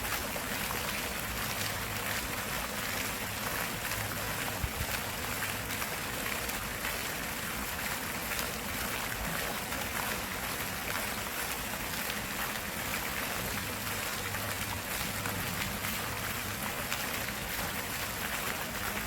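Stream water flowing steadily, an even rushing hiss with no breaks.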